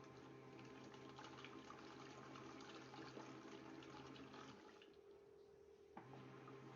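Moyu folding mini washing machine washing, faint: its motor hums steadily while water swishes in the tub, stopping about four and a half seconds in and starting again a second or so later as the wash action pauses and resumes.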